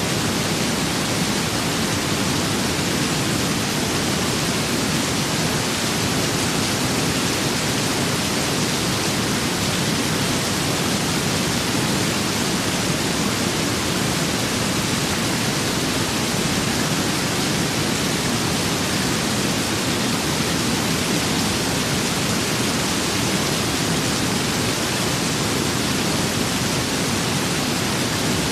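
Steady rain with wind, a dense even hiss and rush that keeps the same level throughout.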